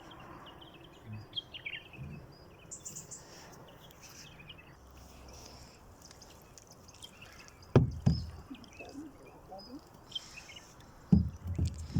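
Quiet open-air ambience with faint bird chirps, broken by a sharp knock about eight seconds in and a few more knocks near the end.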